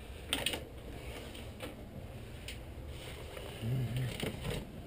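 A door latch clicks as the back door is opened, followed by faint handling ticks. About three and a half seconds in comes a brief low two-part hum from a person.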